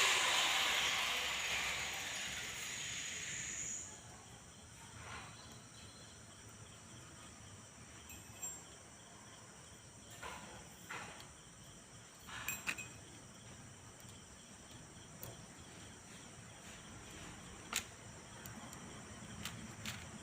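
A hiss that fades away over the first four seconds, then faint background with a few scattered light clicks and taps.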